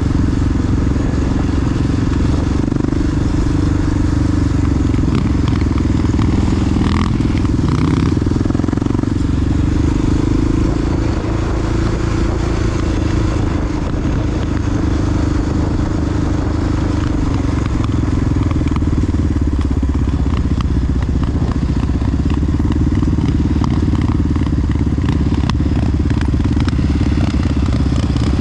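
Big single-cylinder four-stroke Honda XR dual-sport motorcycle engine running steadily while riding, its note holding fairly even throughout.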